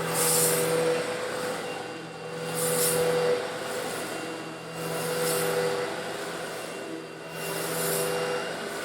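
Old Eureka vacuum cleaner running with a steady motor hum while sucking up coarse stone granules slightly larger than sand. The rattling hiss of grit being pulled in swells and fades about every two and a half seconds, four times.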